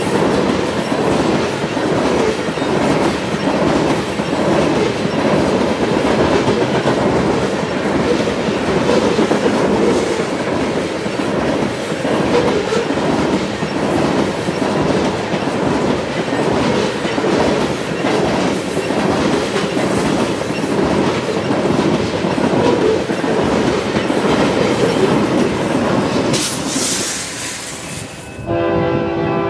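Freight train tank cars rolling past at speed, a steady rumble with the wheels clacking over the rails. Near the end the sound cuts and a locomotive horn starts, a steady multi-note chord.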